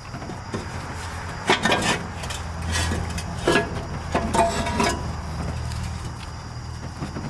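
Metal clinks and knocks of tools and parts being handled during work on a diesel engine's turbo and downpipe: about five sharp strikes in the first five seconds. A low steady hum runs underneath.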